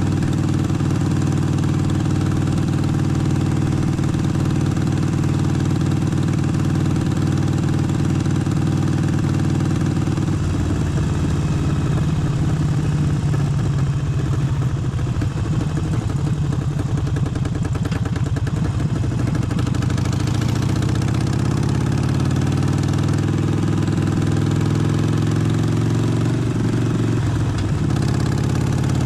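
Harley-Davidson Forty-Eight's V-twin engine running. Its note holds steady for about ten seconds, then shifts, rises from about twenty seconds in and drops back near the end.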